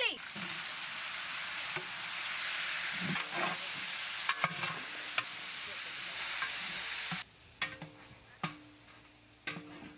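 Food sizzling as it fries in a pan, with occasional knocks of a stirring spoon against the pan. The sizzle cuts off suddenly about seven seconds in, leaving a few faint knocks.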